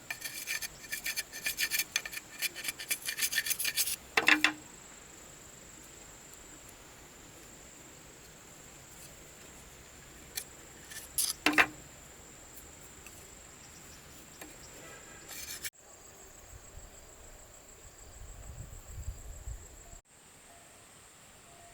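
Rapid rasping strokes of a hand tool working wood for about four seconds, then they stop. A steady high insect drone continues behind, with a few short knocks a little past the middle.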